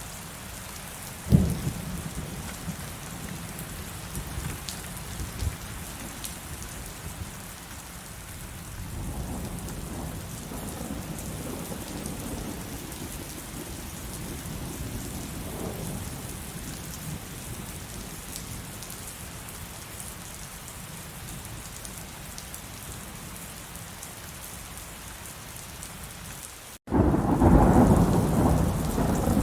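Heavy rain falling steadily in a thunderstorm. Thunder gives a sharp crack about a second in and a low rolling rumble partway through. Near the end, after a split-second break in the sound, comes a loud, long peal of thunder.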